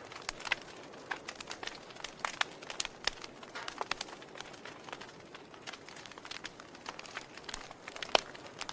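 Wood fire crackling in a fireplace: irregular sharp pops and snaps over a soft hiss, with one louder pop near the end.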